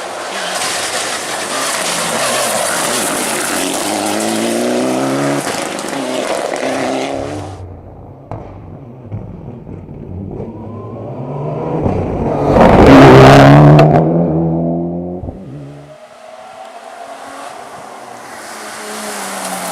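Rally car engines at full throttle on a stage. First a car revs hard with its engine note climbing, and this cuts off abruptly. Another car then approaches and passes close by, loudest about two-thirds of the way through, its note dropping as it goes away. Near the end another engine rises again.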